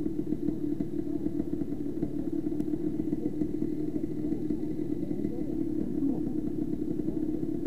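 Motorcycle engine running at a steady speed without let-up.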